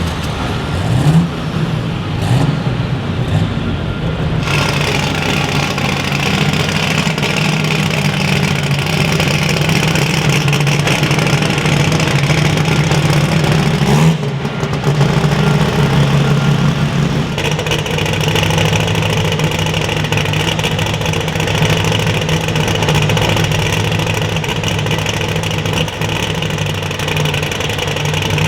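Loud engine of a pulling truck or tractor running at sustained high revs, with a short rise in pitch about a second in and shifts in its sound around four, fourteen and seventeen seconds in.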